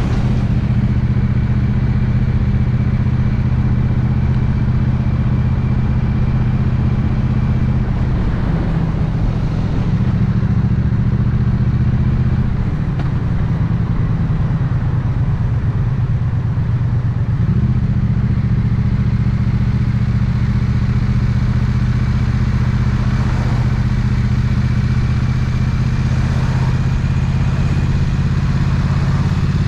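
Triumph Bonneville 900cc parallel-twin engine running steadily at low revs in slow traffic, its note shifting for several seconds in the middle before settling again.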